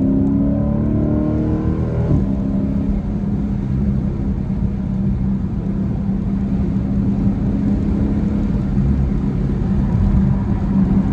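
Dodge Challenger SRT 392's 6.4-litre Hemi V8 heard from inside the cabin while driving. The engine pulls at a higher pitch, drops to a lower one about two seconds in, then holds a steady drone.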